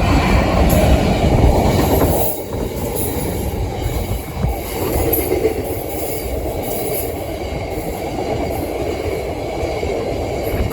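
Class 66 diesel locomotive 66784 passing close by at the level crossing, its two-stroke diesel engine and wheels loudest for the first two seconds, then its train of wagons rumbling past steadily on the rails.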